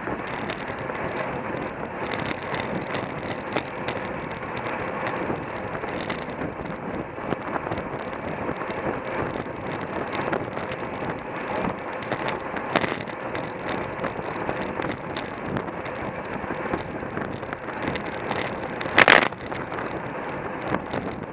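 Wind rushing over a bicycle-mounted camera's microphone while riding in a road race, with constant rattling and clicking from the bike over the road. A single sudden loud bump comes near the end.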